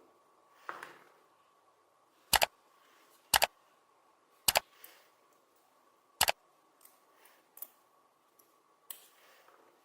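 Four sharp double clicks about a second apart, followed by a few fainter clicks, over a faint steady high tone.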